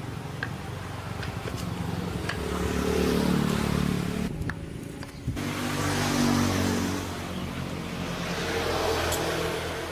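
Small motorcycle engine running and being revved: it rises to a peak about three seconds in, drops off briefly, then revs up twice more.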